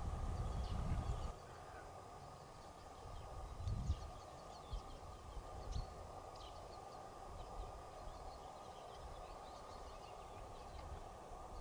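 Small birds chirping in short high calls, over a steady outdoor rush, with wind buffeting the microphone in the first second and again around four seconds in.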